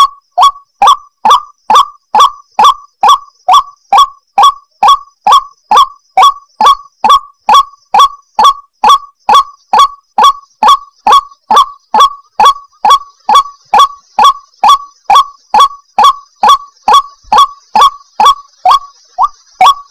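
White-breasted waterhen giving its monotonous repeated call: a loud, short, harsh note about twice a second in an unbroken even rhythm, the kind of call played as a lure for wild waterhens.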